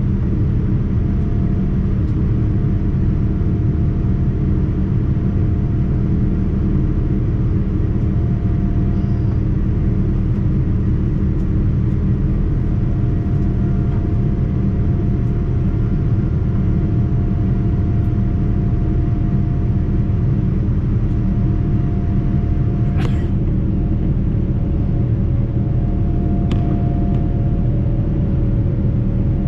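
Steady low rumble of a Boeing 787-9's cabin in flight: engine and airflow noise. A single short click comes about three-quarters of the way through.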